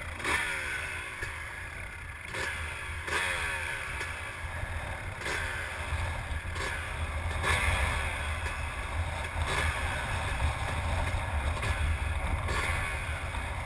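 Honda CRF450 motocross bike's single-cylinder four-stroke engine running at low revs, a steady low rumble with faint repeating ticks.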